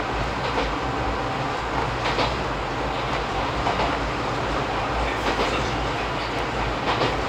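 Izuhakone Railway 3000 series electric train running at speed, heard from inside the car: a steady rumble of wheels on the rails, with a faint click from the rail joints every second or two.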